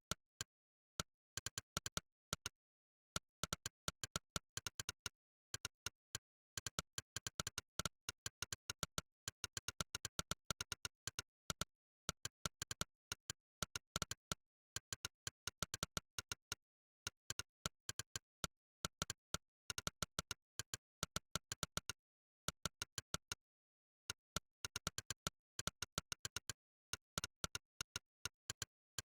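Monkeytype's synthetic "click" keypress sound, one sharp click per keystroke, coming in fast runs of several clicks a second with brief pauses, and dead silence between clicks.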